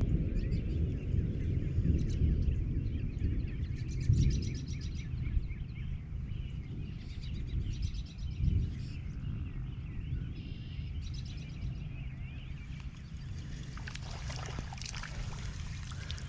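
Outdoor ambience: birds calling in short repeated phrases every few seconds over a continuous low rumble, loudest near the start.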